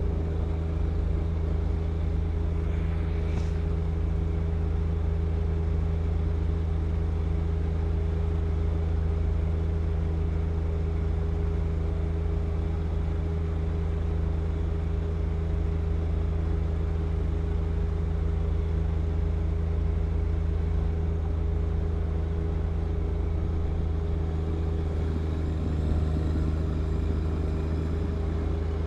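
John Deere 1025R compact tractor's three-cylinder diesel engine running steadily, its pitch and level unchanging.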